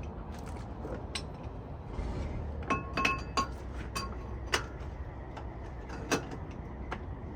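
Steel hand tools clinking and tapping on a semi-truck's wheel-end parts while the wheel bearing is adjusted. There are about half a dozen sharp metallic clinks, each with a brief ring, over a steady low rumble.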